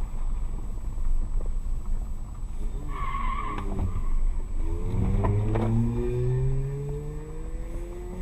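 Car on the road with steady low rumble, a short high tone about three seconds in, then an engine accelerating with slowly rising pitch from about five seconds in.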